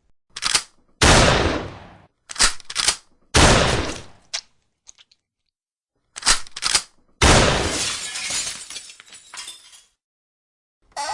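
Sound-effect sequence of three sudden loud cracks, each just after a short quick pair of clicks, each crack trailing off in a crashing, ringing tail that dies away over a second or two.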